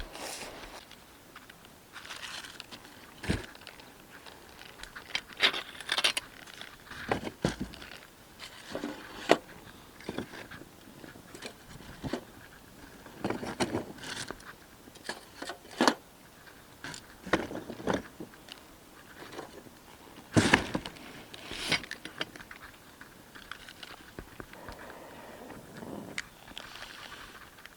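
Irregular handling noises: sharp clicks and knocks mixed with rustling and scraping, as objects are picked up, set down and moved about.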